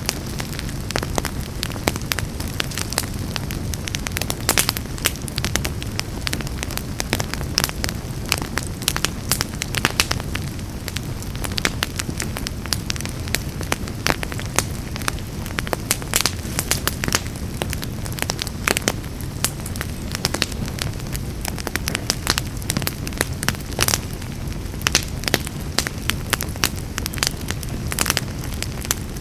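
Wood fire in a fireplace crackling and popping, with frequent irregular sharp pops over a steady low rushing sound.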